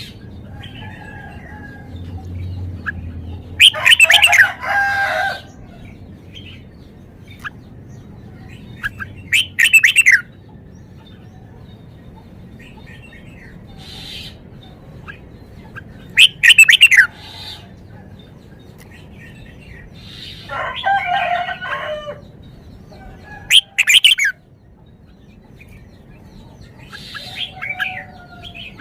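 Red-whiskered bulbul singing loud, short whistled phrases with quick up-and-down sweeps, one every few seconds, with fainter chirps between them.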